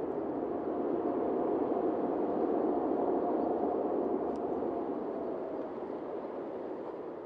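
Boeing 777-200ER's jet engines heard as a steady rush with a faint whine, swelling slightly and then fading away near the end as the airliner moves off.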